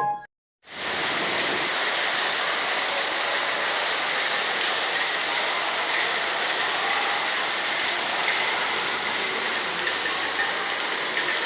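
Steady hiss of heavy rain, cutting in abruptly after a short silence about half a second in.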